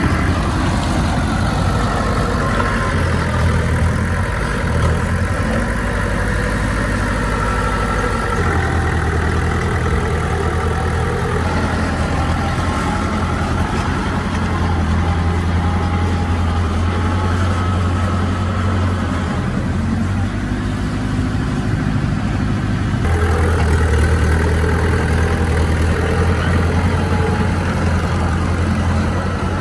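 Bulldozer's heavy diesel engine running steadily under load, its note shifting about eight seconds in and again a little past twenty seconds.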